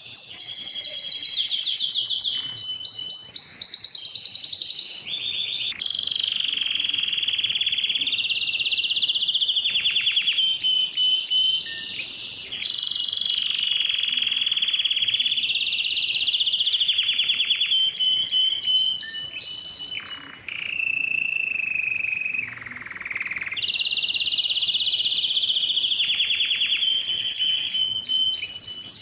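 Domestic canary singing a long continuous song of fast trills and rolling, warbling phrases, with only brief pauses between phrases.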